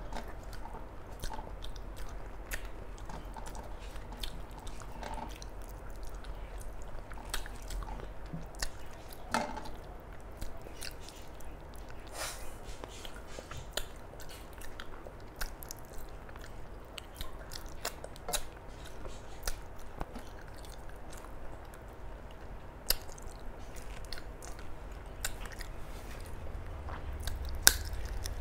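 Close-up chewing and mouth sounds of a person eating a meal of rice and curries, with irregular wet clicks and smacks. A sharper click comes near the end.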